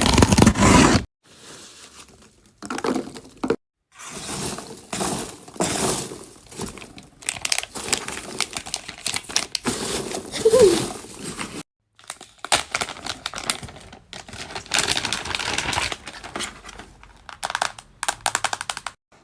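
Crinkling and tearing sounds in a series of short stretches, broken off several times by abrupt dead silences.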